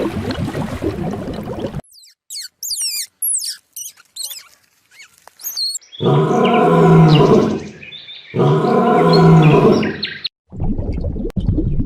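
A run of animal sounds: quick high bird chirps and whistles for a few seconds, then two long, loud, low calls from a large animal, each about two seconds. The calls are followed by a steady rushing noise near the end.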